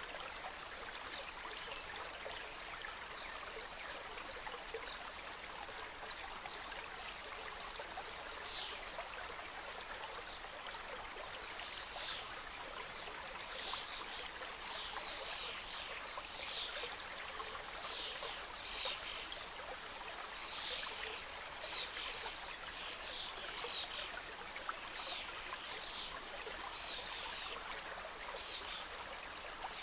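Mountain stream flowing through a forest: a steady rush of water with many short high-pitched accents, more frequent in the second half.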